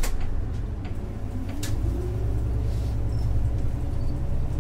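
Isuzu Erga bus's 6HK1-TCC diesel engine heard from inside the cabin, picking up speed: the engine note rises from about a second in and the low rumble swells. A few sharp knocks or rattles are heard.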